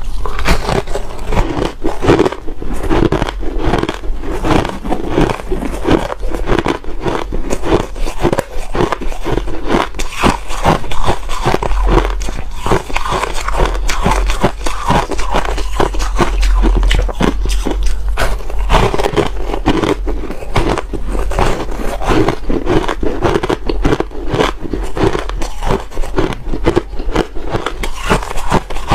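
Ice being chewed and crunched close to the microphone, a dense run of rapid, sharp crunches that goes on without a break.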